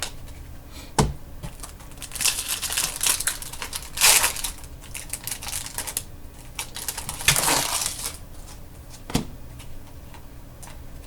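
Trading-card pack wrapper crinkling and tearing in bursts as it is handled and opened, the loudest about four seconds in, with a sharp tap about a second in and another near the end.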